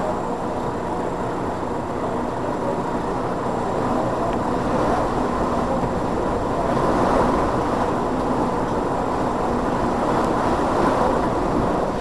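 Hurricane-force wind heard from inside a building lobby: a steady, deep rush with slow swells in strength, and a faint steady hum underneath.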